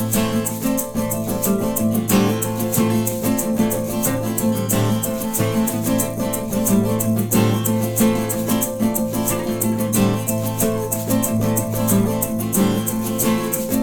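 Instrumental music on acoustic guitar, with a shaker keeping an even rhythm; no singing.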